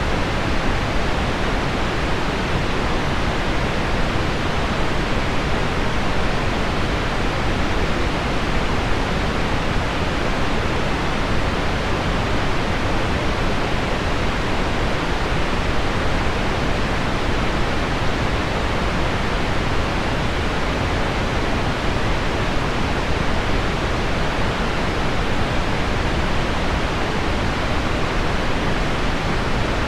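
Steady pink noise: an even, rain-like hiss weighted toward the low end and dull above the mid-treble. It stays constant throughout, with no separate drops or taps standing out.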